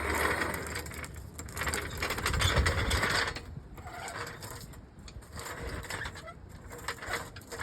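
Hand ratchet wrench clicking fast as it turns bolts on the drive shaft, in bursts: a long run for the first three seconds, then shorter runs.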